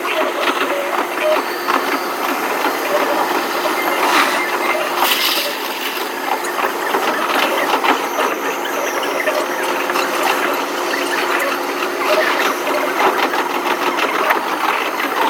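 Tokaido Shinkansen train running, heard from inside the passenger car: a steady rumble and hiss with rapid small clicks and rattles from the wheels and car body.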